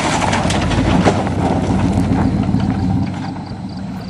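Pickup truck engine running with a rapid clatter and rattling over it, growing quieter from about three seconds in.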